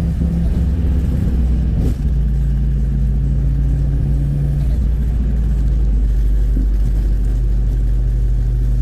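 BMW 3 Series Touring driving, heard from inside the cabin: a steady low engine-and-road drone, with a brief dip about two seconds in.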